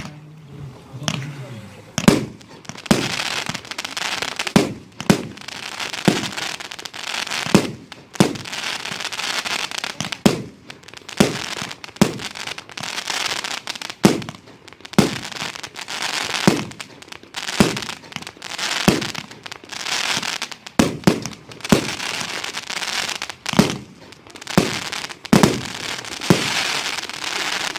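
Pyrotrade Brocade Sin fireworks battery firing a long sequence of shots, about one a second, with a hiss between the shots.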